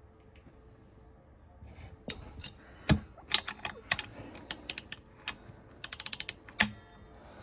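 Socket ratchet wrench clicking on a nut being tightened, with scattered metal clicks and knocks and a quick run of ratchet clicks about six seconds in.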